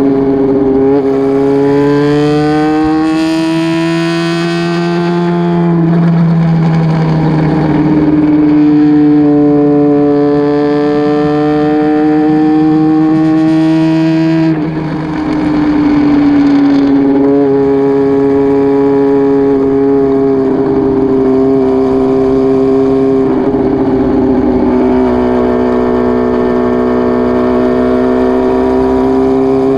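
Honda CBX400F's air-cooled inline-four running through an open RPM 4-2-1 straight pipe with no baffle, under way. The note climbs in pitch and drops sharply at gear changes about six and fifteen seconds in, then holds a steadier cruising note.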